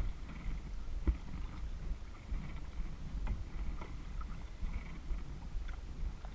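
Kayak paddling on a lake: paddle strokes splashing and dripping in the water, with a few light clicks over a low wind rumble on the action-camera microphone.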